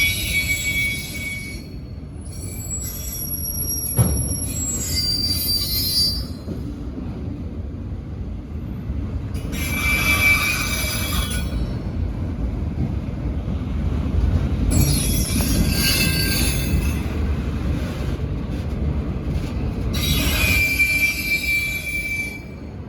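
Freight train rolling past with a steady low rumble, its wheels squealing in high-pitched bursts that come and go every few seconds.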